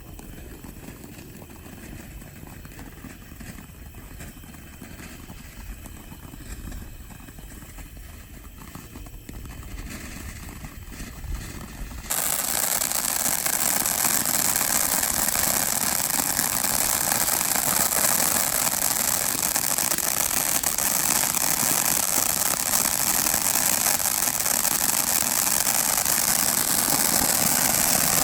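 Low rumble of wind on the microphone, then about twelve seconds in a 500 gram firework fountain ignites with a sudden, loud, steady hiss of spraying sparks.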